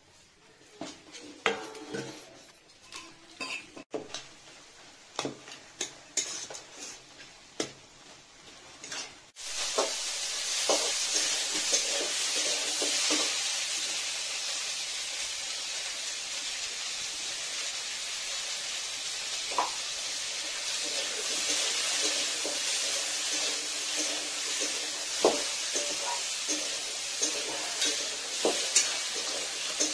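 Metal spatula scraping and clinking against a steel wok as shredded cabbage and potato are stirred. About a third of the way in, a steady sizzle of the frying cabbage starts suddenly and runs on, with occasional spatula clinks over it.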